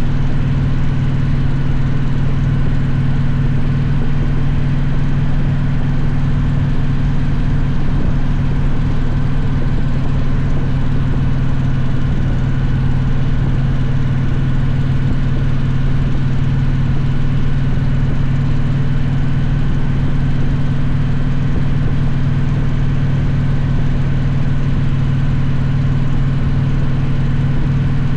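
Victory V-twin motorcycle engine running at a steady cruising speed, its pitch holding even with no revving or gear changes.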